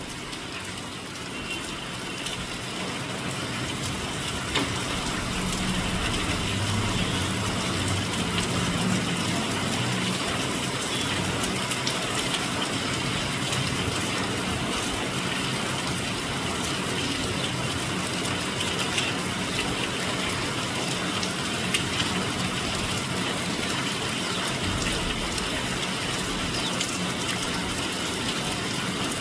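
Heavy rain falling steadily, a dense even hiss with scattered faint ticks of drops, swelling over the first few seconds. A low hum sits under it for a few seconds in the first third.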